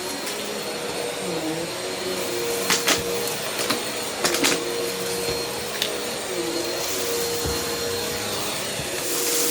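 Vacuum cleaner running steadily, its motor tone dipping and wavering a few times as it works. Sharp clicks come around three seconds and four and a half seconds in, as bits of debris are sucked up.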